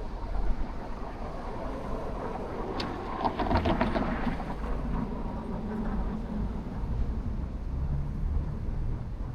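City traffic on a rain-wet street: a steady low rumble of passing vehicles, with a louder passing vehicle about three seconds in that brings a quick clattering with a slight ringing tone for a second or so.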